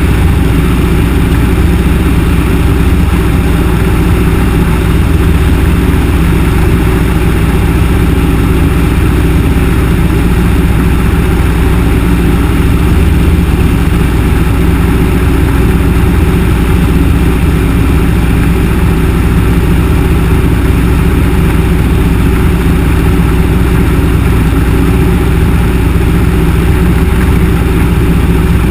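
Yak-18T's nine-cylinder radial piston engine and propeller running steadily, heard loud from inside the cabin, with an even, unchanging pitch throughout.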